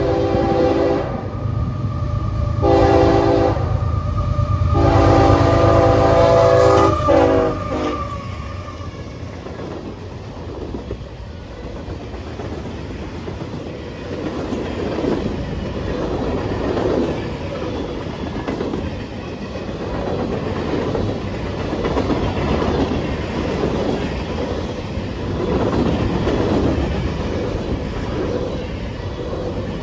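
Locomotive horn sounding three blasts over a passing engine's rumble: one ending just after the start, one short, then one longer blast ending about 8 seconds in, a pattern typical of a grade-crossing signal. The rail cars then roll past with a steady clickety-clack of wheels over rail joints.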